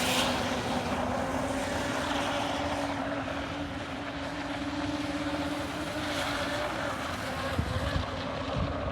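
Radio-controlled model boat with a 4255 brushless electric motor running, heard as a steady, slightly wavering motor whine over a hiss. A few low thumps come near the end.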